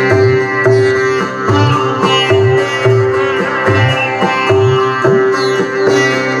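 Sitar played with plucked, gliding notes over a steady drone from an electronic tanpura. An electronic tabla box keeps time with low drum strokes about every three-quarters of a second.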